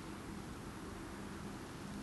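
Steady lake and weather ambience: an even, unbroken hiss of wind and water, with a faint low hum underneath.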